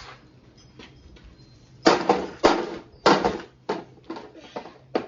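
Stainless steel casing of a coffee maker being scratched in a run of sharp strokes, about two a second, starting about two seconds in.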